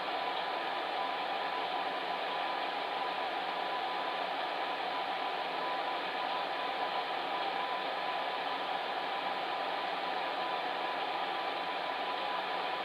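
Electric fan heater running steadily: an even blowing whoosh with a faint steady hum underneath.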